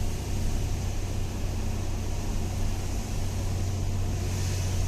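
Truck engine running steadily in a low gear on a steep downhill road, a constant low drone.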